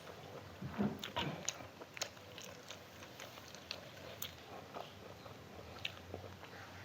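Close-miked eating: wet chewing, mouth clicks and smacks from a person chewing food. The sounds are thickest and loudest about a second in, then go on more sparsely.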